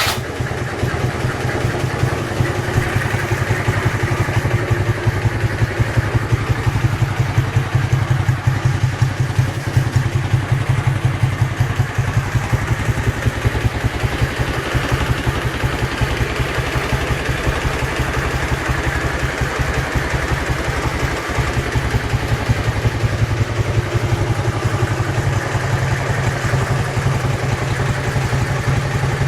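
Dnepr-11 motorcycle's flat-twin engine idling steadily with an unexplained knock, whose cause a teardown of the engine failed to find.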